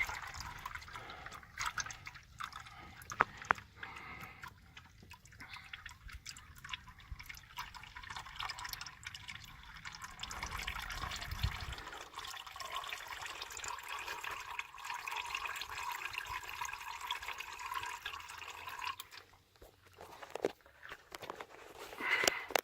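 Hot engine oil from a 6.0 Power Stroke diesel's oil pan draining in a steady stream into a drain pan, with a few sharp clicks about three seconds in.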